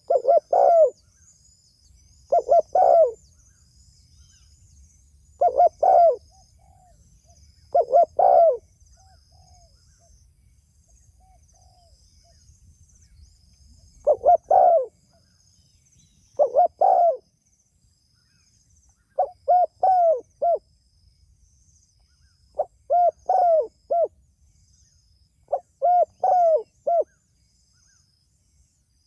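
Spotted dove (tekukur) cooing: about ten short phrases of two to four low coos, repeated every two to three seconds with a longer pause in the middle. Faint chirps of small birds sound behind it.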